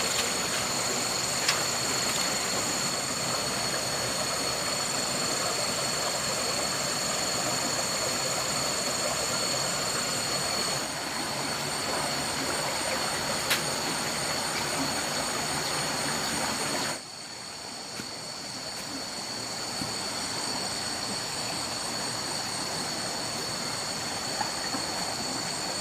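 Steady outdoor hiss with two high, steady whining tones over it and a few faint clicks. About seventeen seconds in, the hiss drops abruptly to a quieter level while the high tones carry on.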